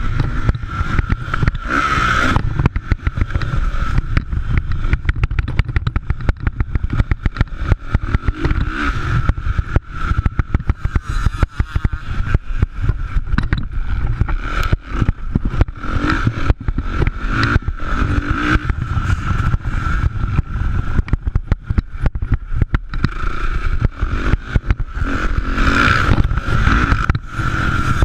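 Motocross dirt bikes racing, several engines revving and swelling as they pass, over a heavy low rumble and constant crackle.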